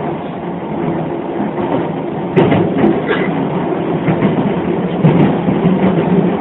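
Hokuso 7500-series electric commuter train running between stations: a steady rumble of wheels on rails and traction motors, with a sharper knock about two and a half seconds in.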